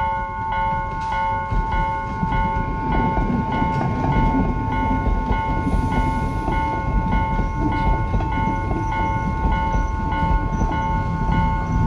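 Level crossing warning bell ringing in a steady, even rhythm while a diesel multiple unit train rumbles across the crossing, its low rumble building a couple of seconds in.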